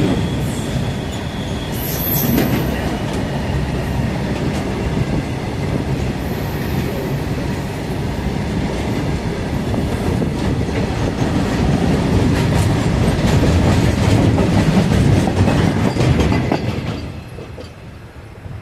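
Train running on the track: a loud, steady rumble with wheel clatter and clicks over the rails. The noise falls away about seventeen seconds in.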